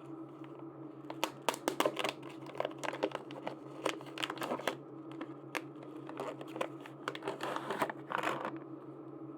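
Plastic packaging crinkling and tearing as it is unwrapped by hand: a dense run of sharp crackles from about a second in to near the end, over a steady low hum.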